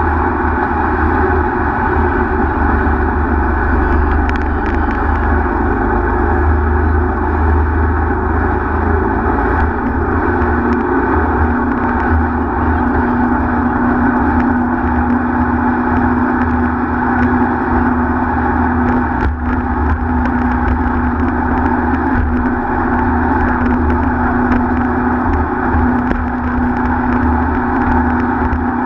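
Speedboat engine running steadily at speed: a loud, even drone with a steady hum.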